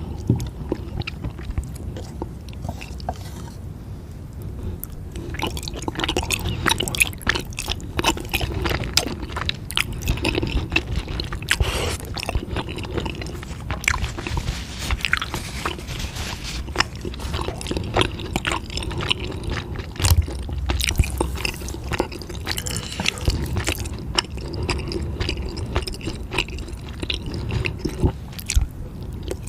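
Close-up mouth sounds of a person chewing spicy food, with many sharp crunches and wet squishing bites. Sparser at first, growing busier about five seconds in.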